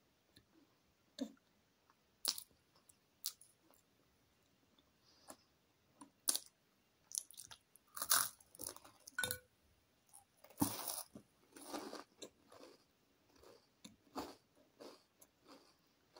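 Close-up chewing and crunching of crisp food, bites of cheese twist sticks and a chicken baguette: irregular crunches that come thickest in the middle.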